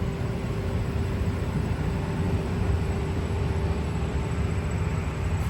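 City street traffic: a steady low rumble of passing vehicles with a faint constant hum running through it.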